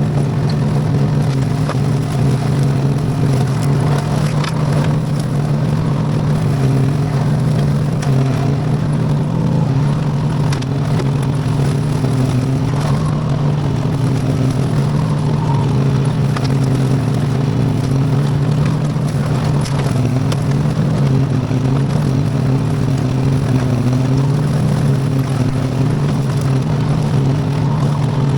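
Homemade tractor's V-twin Briggs & Stratton engine running steadily at a constant speed while mowing with a bush hog, with a few faint ticks over the steady drone.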